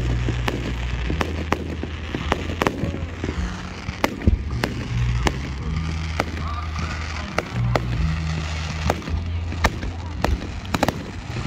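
Aerial fireworks shells bursting: a string of sharp bangs and pops at irregular intervals. Underneath runs music with low bass notes that change every second or so.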